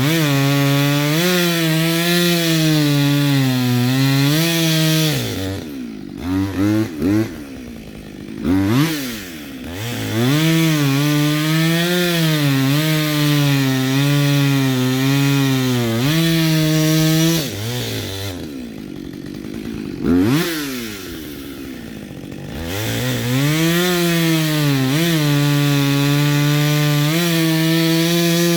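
Chainsaw running at full throttle and cutting wood, its pitch wavering as the chain bites. Twice it eases off to a lower speed between cuts and revs back up.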